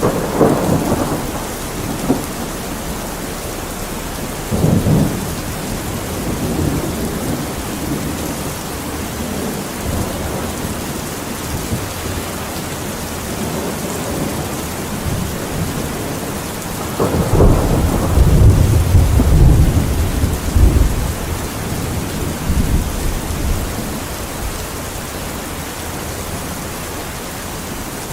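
Steady heavy rain with rolling thunder: a rumble at the start, another about five seconds in, and a long, loud roll from about seventeen to twenty-one seconds in that dies away in smaller rumbles.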